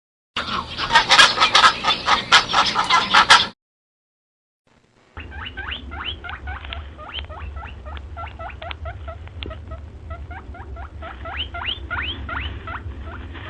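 Animal calls in two separate bits. First comes a loud rasping burst of rapid clicks lasting about three seconds. After a short silence comes a long run of short, high, rising squeaks, several a second, over a steady low hum.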